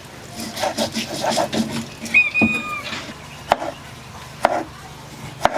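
An animal's single held call about two seconds in, among scattered knocks and clatter.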